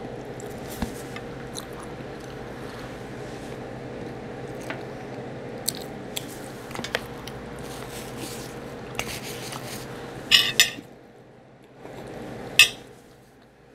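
A person chewing barbecue ribs with her mouth closed: soft wet mouth sounds and small clicks over a steady background hum, with a few louder sharp smacks or clicks near the end.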